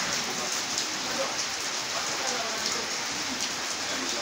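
Steady rain falling, an even hiss with fine pattering that keeps up without a break.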